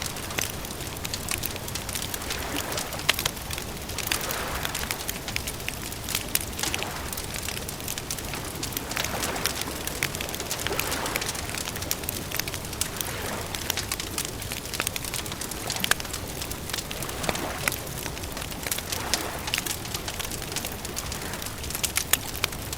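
Campfire crackling, with frequent small sharp pops over a steady hiss and soft swells every two or three seconds.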